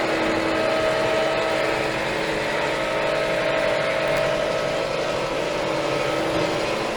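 Steyr 4075 Kompakt tractor's four-cylinder FPT diesel engine running at a steady speed, a constant hum with no change in pitch.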